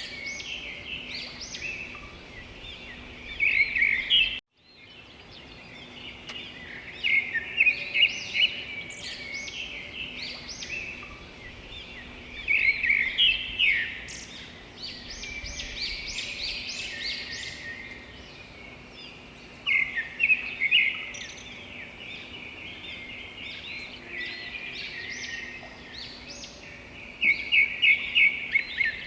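Wild songbirds singing and chirping, with louder bursts of quick, high trilled notes every few seconds over a faint steady hum. The sound drops out completely for a moment about four seconds in.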